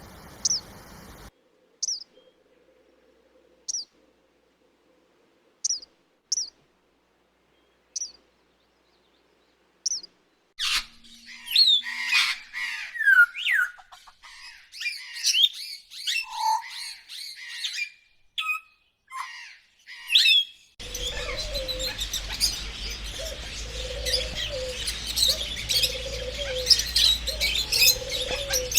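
Wild birds calling in a sequence of separately recorded clips. First come single short high chirps about every two seconds, then a busy stretch of varied, sweeping song. From about two-thirds of the way through, many birds chirp over steady background noise, with a low call repeating about once a second.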